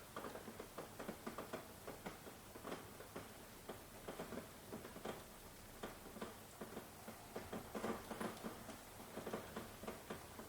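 Rain falling, heard as a faint steady hiss with many irregular drops tapping close by.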